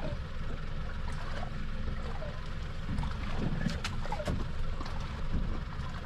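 Wind buffeting the microphone on an open boat, with water lapping at the hull. A few sharp clicks come a little past halfway.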